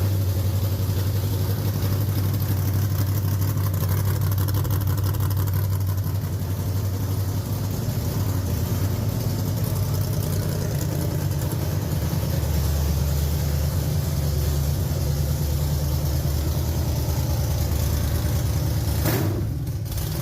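Dirt late model race car's 360 cubic-inch V8, fed by a temporary two-barrel carburetor, running steadily just after its first start-up, with a brief dip near the end. It is running, though it sounds like a plow truck.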